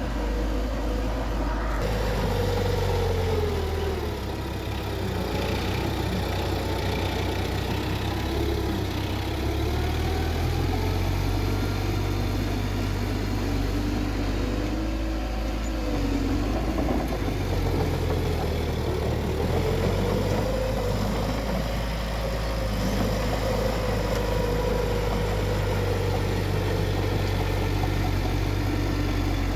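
Heavy earthmoving machine's diesel engine running steadily, its pitch dipping and rising several times as it works under changing load.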